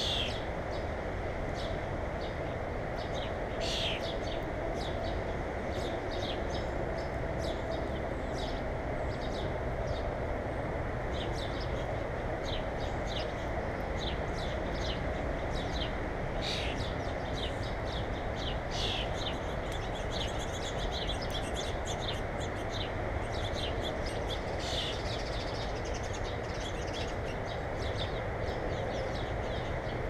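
Small songbirds chirping, many short high chirps scattered throughout, over a steady low background noise.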